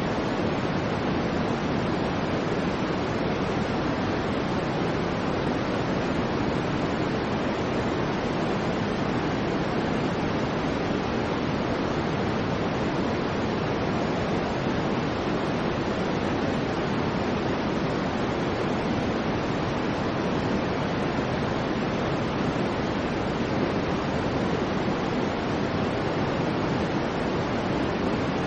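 Synthetic soft white noise for infant sleep: a steady, even hiss with its weight in the low-middle range, dull rather than bright, unchanging throughout.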